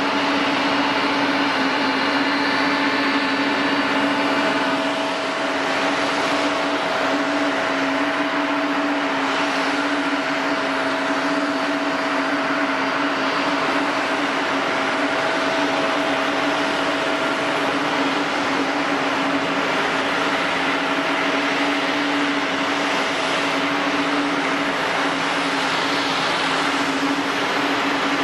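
Airliner jet engines running steadily on the ground, a constant hum with a steady whine over a broad rush of noise; some higher whining tones fade out about five seconds in.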